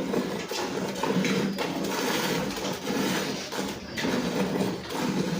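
Milk squirting into a pail in a steady rhythm of strokes as a cow is milked by hand.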